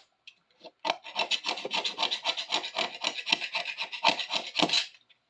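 Quick back-and-forth scraping strokes on the rough patch of a steel adjustable wrench, several strokes a second, starting about a second in and stopping shortly before the end.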